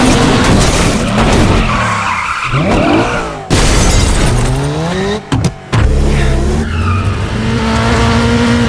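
Movie car-chase sound mix: several car engines revving hard, their pitch rising and falling with the gear changes, over tyres skidding and squealing. The sound breaks off abruptly for a moment twice, around the middle.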